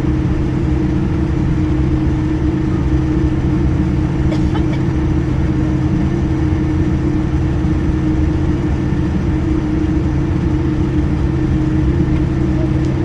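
Airliner engines running with a steady, unchanging drone, heard inside the passenger cabin as the plane prepares for takeoff.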